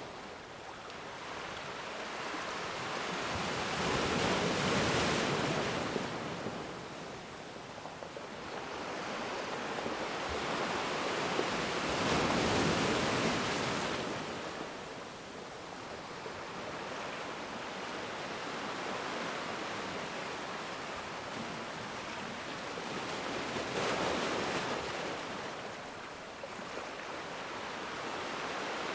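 Ocean waves breaking and washing on a shore, three swells of surf rising and falling over steady rushing water.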